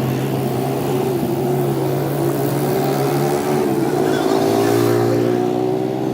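An engine running steadily, its pitch shifting a little about two-thirds of the way through.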